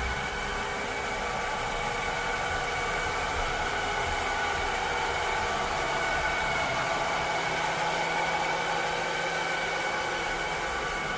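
Cleaning robot running steadily: an even motor and fan whir, with several high tones held over a rushing noise and a low rumble, unchanging throughout.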